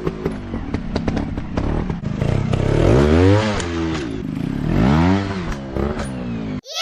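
Dirt bike engines revving up and dropping back in repeated swells, mixed with a dense clatter of sharp knocks and scraping. The sound cuts off abruptly near the end.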